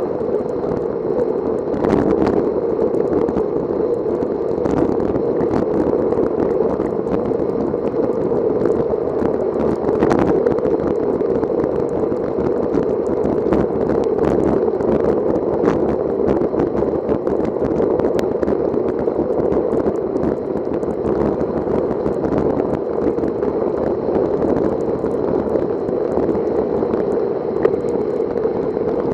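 Steady rushing wind and wet-road noise from riding a bicycle in the rain, with scattered faint clicks.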